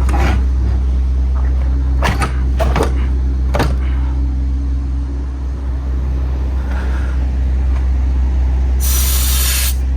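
MAN TGX 18.510 truck's diesel engine idling with a steady low hum, with several sharp knocks and clicks in the first four seconds. About nine seconds in, a short burst of air hiss lasts just under a second.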